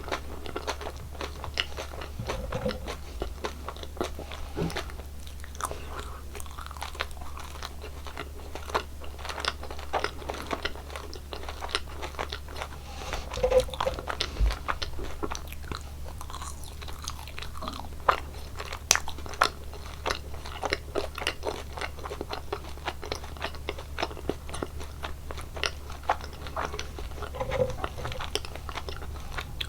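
Close-miked biting and chewing of gummy and jelly candies: a constant run of wet, crunchy clicks with sharper bites every few seconds, over a steady low hum.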